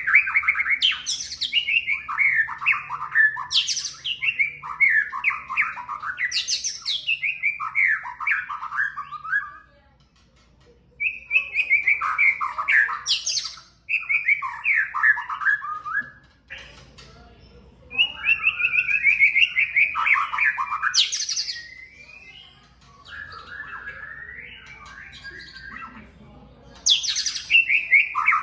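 White-rumped shama singing a lure song: loud, varied whistled phrases mixed with sharp notes, delivered in bouts of a few seconds with short pauses between them.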